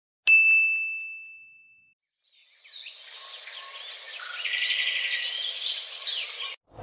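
A single bright ding, like a small bell or chime, struck once and ringing out on one high tone for under two seconds. It is followed, after a short gap, by a dense chorus of chirping birds that fades in and cuts off abruptly near the end.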